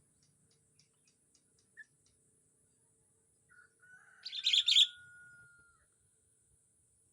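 A bird calls once, about halfway through: a loud, fast, high chatter over a long, steady whistle that holds on one note, then stops.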